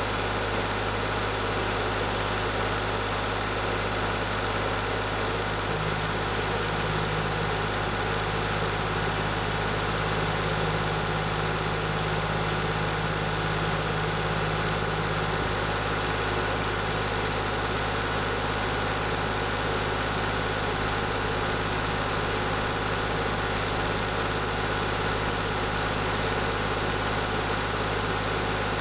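An engine running steadily at a constant idle, an unchanging drone.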